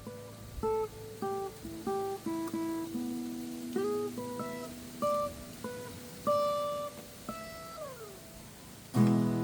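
Steel-string acoustic guitar playing a single-note pentatonic scale run, one plucked note after another, with a couple of sliding notes. About nine seconds in a full chord is strummed.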